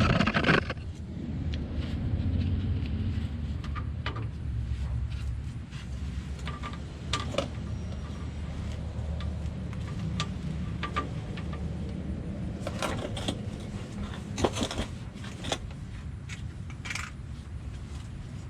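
Loose metal hand tools and bolts clinking and scraping during driveshaft reinstallation, with a sharp clatter near the start and a cluster of clinks about two-thirds of the way through, over a steady low rumble.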